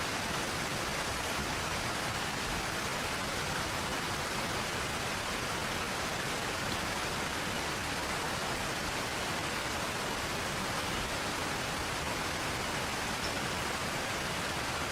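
Steady rain falling, an even hiss with no separate drops or crackles standing out.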